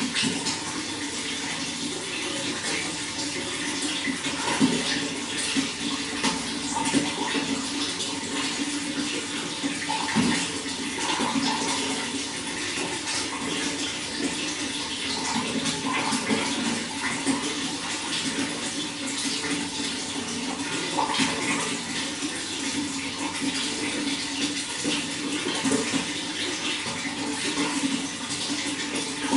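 Steady running water, flowing and splashing without a break.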